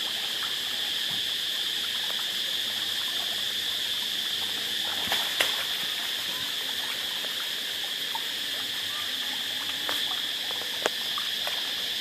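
Steady, high-pitched chorus of insects, with a few sharp clicks, the loudest about five seconds in and another near eleven seconds.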